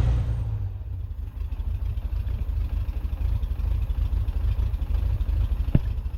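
1963 Chevrolet Corvair's air-cooled flat-six engine running on freshly rebuilt carburetors. It drops from a faster, louder run to a steady, pulsing idle at the start, with a faint click near the end.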